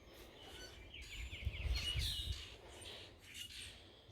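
Small birds chirping, with a quick trill of repeated notes about a second in and more short chirps after it, over a low rumble with a few soft thuds.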